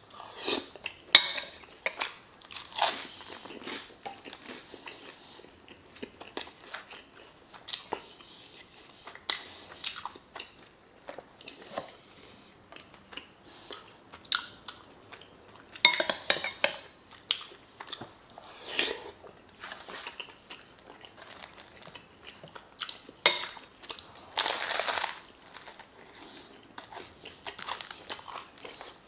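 Close-up mukbang eating sounds: a person chewing and biting mouthfuls of beef stew and baguette, with wet mouth smacks and irregular crunchy clicks. A metal spoon scrapes and clinks against a glass bowl now and then.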